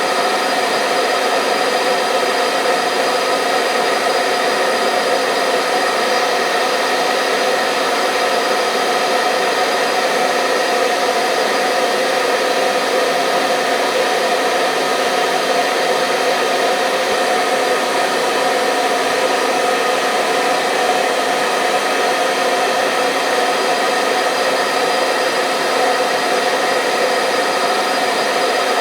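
Hair dryer running continuously with a steady whirring hiss and a constant motor hum.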